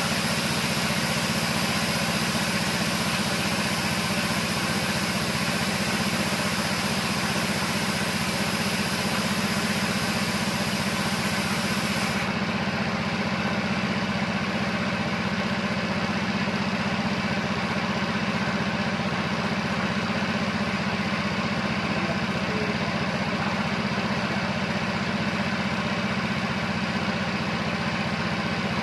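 Air compressor motor running with a steady hum, a high hiss over it stopping abruptly about twelve seconds in.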